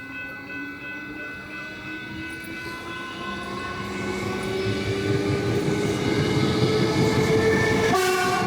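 Train accelerating: a running tone that rises steadily in pitch and grows louder, changing abruptly about eight seconds in.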